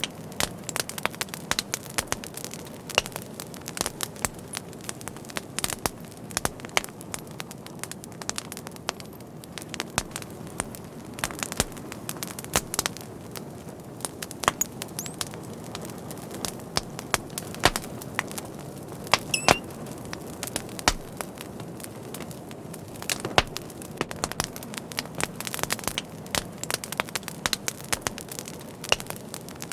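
Fire crackling, with irregular sharp pops and snaps over a steady low rush of burning, a few pops louder than the rest.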